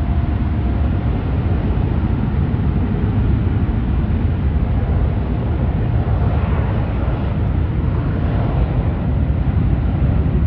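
Jet airliner engines making a steady, deep rumble with a faint whine over it.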